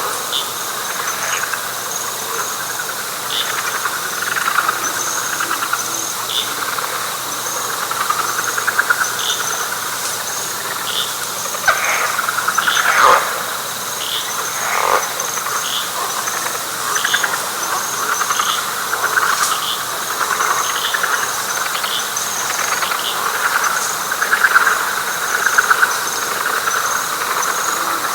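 Night chorus of frogs calling continuously, with insects chirping in a steady rhythm above them and a few louder single calls around the middle.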